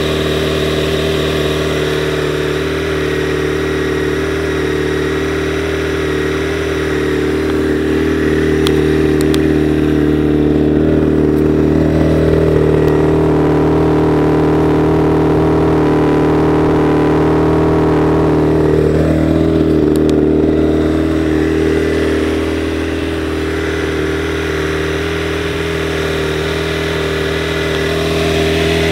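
Honda CBR900RR Fireblade inline-four engine idling steadily. Its speed rises a little about a third of the way in and settles back down a little after halfway.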